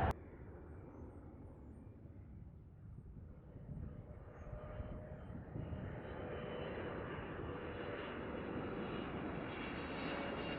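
Airliner engines heard from a distance, a steady rush with a faint hum, growing gradually louder as the aircraft comes nearer. It starts just after an abrupt cut from a louder sound.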